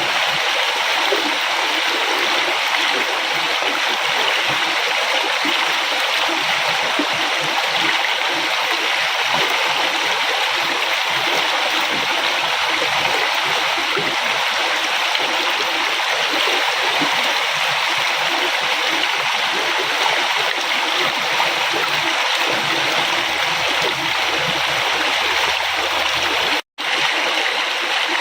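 Flowing river: a steady, even rush of water, cutting out completely for a split second near the end.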